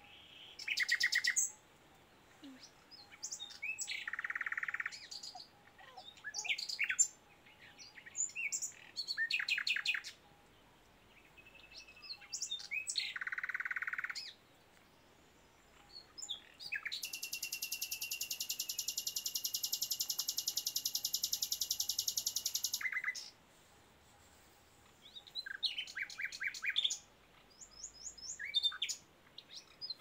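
Wild birds calling and singing: short chirps and quick whistled phrases repeating throughout, with one long, high, rapidly pulsing buzz lasting about six seconds in the middle.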